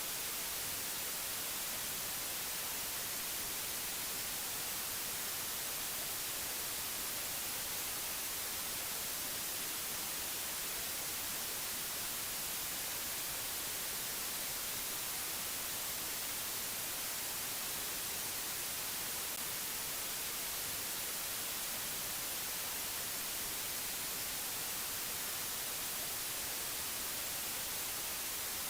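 Steady, unchanging white-noise hiss, brightest in the high frequencies.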